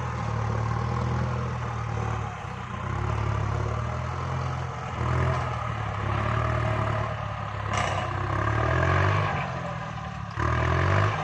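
Kubota MU5702 tractor's diesel engine running under working load while pushing soil, its note wavering and rising and falling with the load. A short sharp sound comes about eight seconds in.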